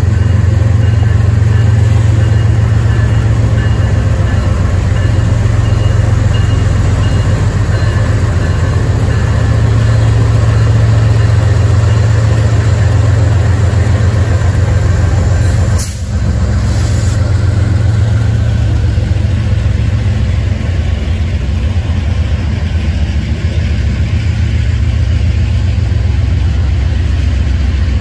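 CSX freight train's diesel locomotives running past at close range, their engines giving a steady, loud, low rumble that eases off in the last third as the freight cars roll by on the rails.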